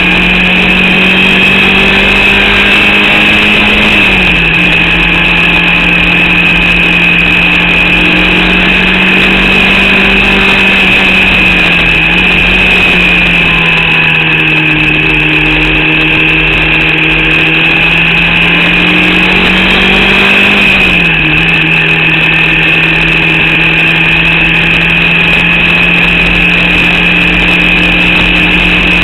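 Formula Vauxhall 8-valve racing engine running hard, heard from onboard, in an engine the driver says was misfiring and short of power. Its pitch drops sharply three times, then climbs slowly again each time.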